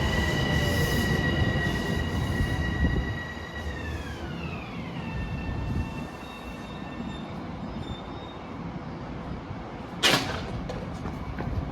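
Long Island Rail Road train passing the station: wheel rumble with a steady high whine that drops in pitch as the train goes by, after which the rumble fades away. About ten seconds in, a brief sharp burst of noise.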